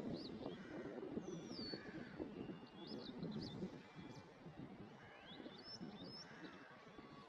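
Birds chirping outdoors: scattered short high chirps and a few quick sliding whistled notes, over a steady low rumble of background noise.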